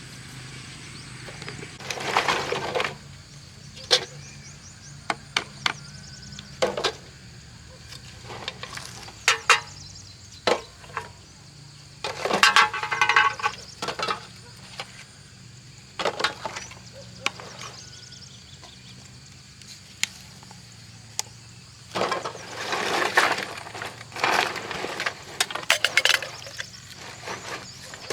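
Scattered sharp knocks and cracks, with a few longer bursts of scraping and rattling, as scrap materials are handled and broken apart.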